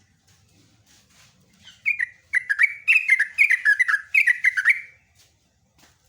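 Yellow-vented bulbul (trucukan) singing: a loud, quick, bubbly run of short falling notes lasting about three seconds, starting about two seconds in, with faint chips before and after.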